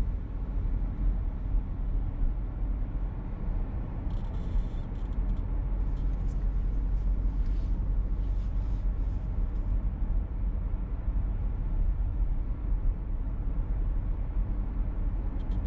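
Cabin noise of a moving VW T-Roc: a steady low road-and-engine rumble, with brief high-pitched squeaks from somewhere in the car about four seconds in and again now and then over the next few seconds.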